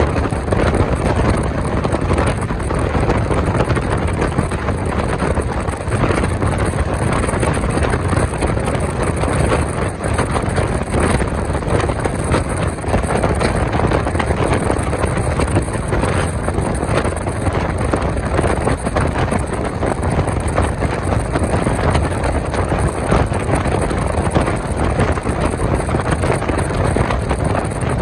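Passenger train running at speed, heard from on board: a steady rumble of wheels on rails, with wind rushing over the microphone.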